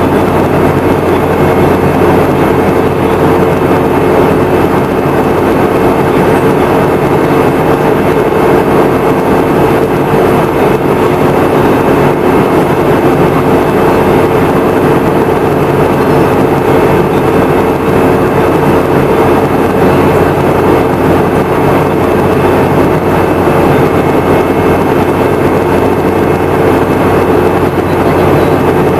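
Steady jet noise inside the cabin of a Boeing 717-200 in flight: the tail-mounted Rolls-Royce BR715 turbofans hum at a constant setting under a loud, even rush of airflow.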